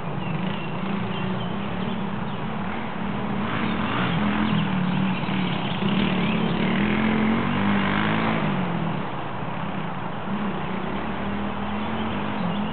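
Single-cylinder four-stroke dual-sport motorcycle running under changing throttle, growing louder toward the middle and fading after about nine seconds as it rides past.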